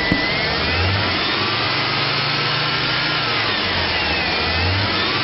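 Chevrolet Tahoe's 5.3-liter V8 engine running, its pitch rising and falling as the engine speed changes.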